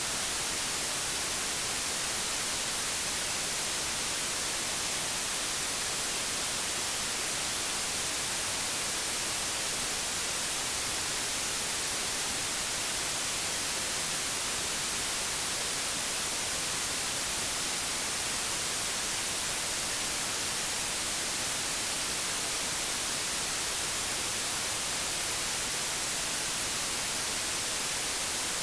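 Steady hiss of analogue television static, brightest in the treble, with no changes.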